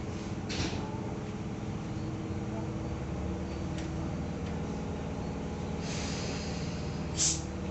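Cabin of a Tobu 10000 series electric train with a steady hum of several low tones from its onboard equipment, broken by two short hisses of air, the louder one near the end.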